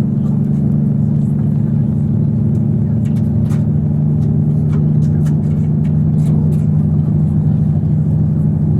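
Cummins diesel engine of a KiHa 85 series diesel railcar running steadily, a low even drone.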